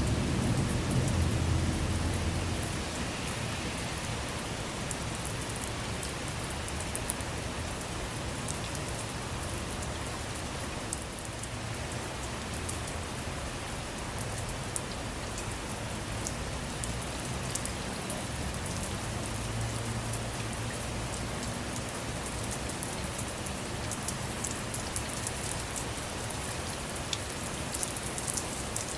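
Steady rain with fine drop ticks, heard from inside a car. Low thunder rumbles in the first couple of seconds and again more faintly about twenty seconds in.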